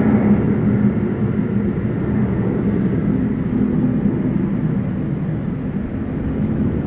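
Jet airliner engines rumbling as the aircraft passes, a deep steady roar that slowly fades, its higher hiss dying away after about the first second.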